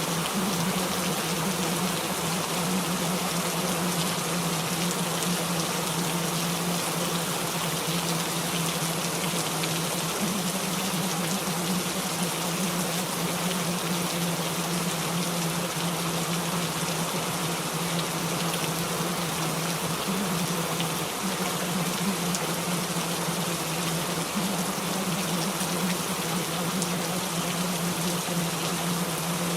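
Steady rain, an even hiss of falling drops, with a constant low hum underneath.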